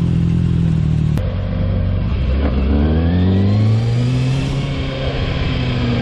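Motorcycle engine accelerating while riding, its pitch rising steadily for a couple of seconds, then easing off about four seconds in.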